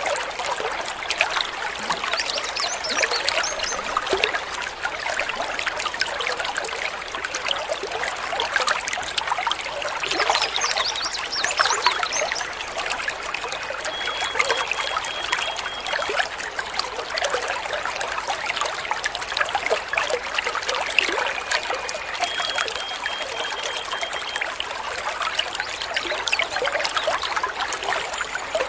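Water trickling and babbling steadily, as in a small stream. A bird's brief series of high, even notes sounds faintly twice, about halfway through and again later.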